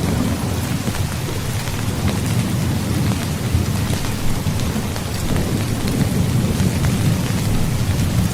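Heavy rain falling steadily, with fine drop ticks, over a continuous low rolling rumble of thunder that swells slightly about five seconds in.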